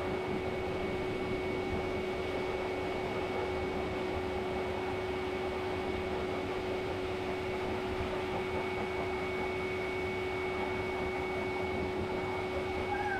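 A small electric motor running steadily, giving an even rushing noise with two constant whining tones, one low and one high.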